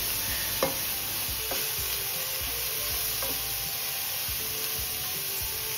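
Diced vegetables sizzling in a hot oiled pan on high heat as they are stirred with a wooden spatula: a steady frying hiss with occasional light scrapes and knocks of the spatula.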